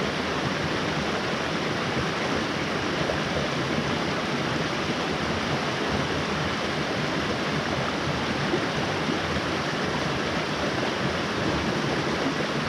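Mountain stream rushing steadily over rocks, an even wash of flowing water.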